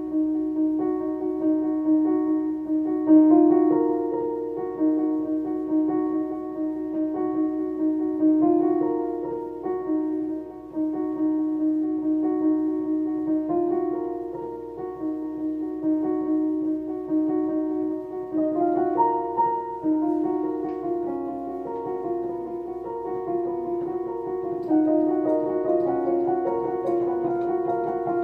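Solo piano playing a slow melody over held notes.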